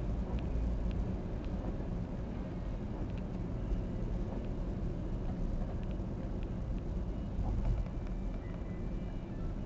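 Car interior noise while driving: a steady low rumble of engine and road, with a few faint light ticks.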